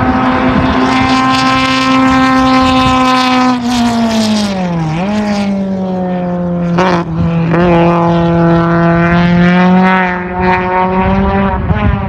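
Racing engine of a hillclimb competition vehicle running hard at high revs. About four seconds in its pitch falls and then picks up again, with a couple of sharp cracks near seven seconds, before it holds a steady high note.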